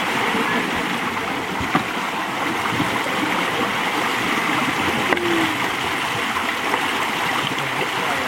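Creek water running steadily, a constant rushing sound.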